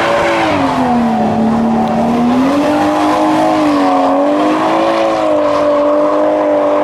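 A car engine held at high revs for several seconds. The pitch sags about a second in, then climbs partway back and wavers.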